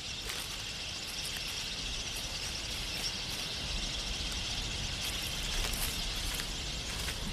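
Steady high-pitched drone of insects with scattered short bird chirps.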